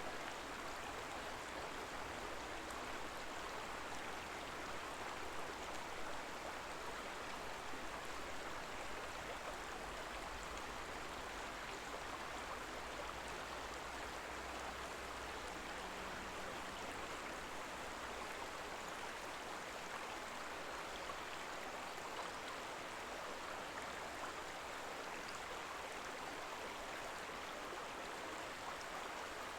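Shallow river babbling over stones: a steady, even rush of flowing water.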